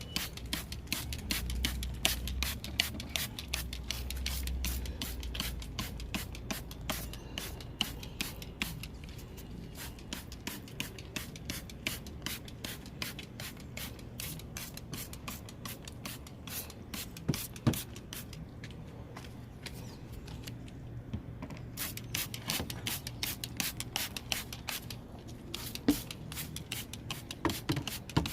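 Engine-bay detailing: a brush scrubbing surfaces in quick, irregular strokes, mixed with sprays of cleaner.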